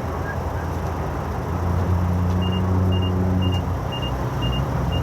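A vehicle engine running with a low hum, and from about halfway through a reversing alarm beeping about twice a second.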